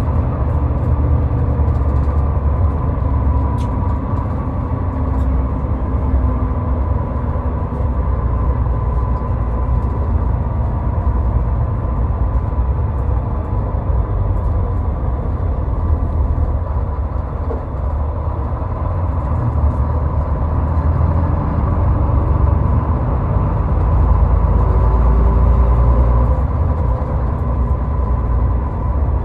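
Steady road noise of a car driving on a highway, a deep rumble with a faint thin whine over it, getting a little louder near the end.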